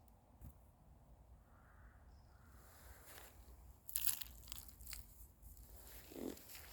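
Quiet outdoor background, then from about four seconds in a burst of crunching and crackling.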